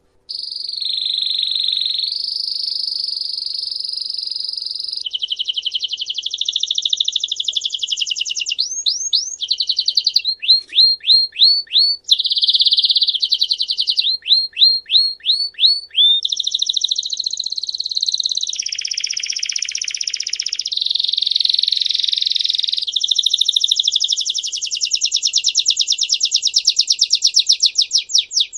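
A canary singing a long, unbroken song of fast trills and rolls, switching to a new trill every second or few. Around the middle it breaks into runs of short rising chirps, several a second.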